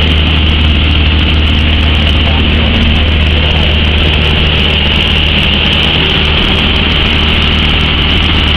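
Cessna light aircraft's piston engine and propeller running steadily in flight, a loud even drone with a deep hum and no change in pitch.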